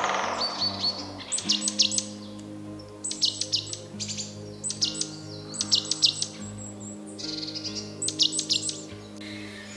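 A bird calling in repeated quick bursts of three or four sharp high chirps, about every second and a half, over a soft sustained music pad. A short swishing rush of noise comes right at the start.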